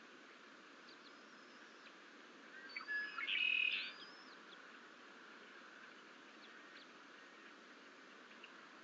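A bird calling: about two and a half seconds in, a burst of high whistled and chattering notes lasts about a second and a half, over a steady hiss. A few faint single chirps follow later.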